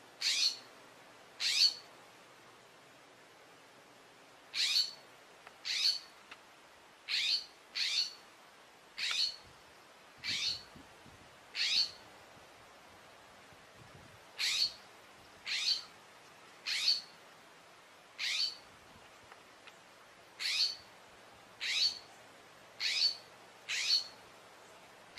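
A small bird's sharp scolding calls at a snake it is attacking: short, quick downward-sweeping chips, about eighteen of them, coming roughly once a second in ones and pairs with short pauses between.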